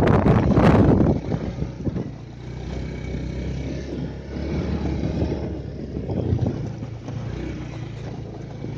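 Vehicle engine droning steadily at a low pitch, after a loud rush of noise in the first second.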